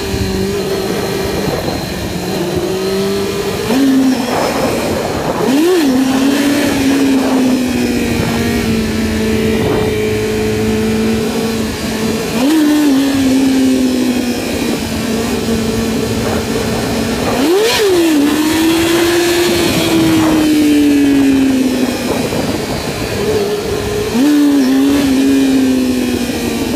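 Yamaha YZF-R6 sport bike's inline-four engine heard from the rider's seat with wind noise, cruising as the rider blips the throttle sharply about five times, each rev spiking and then sagging slowly back. These are quick throttle roll-ons to lift the front wheel for a wheelie.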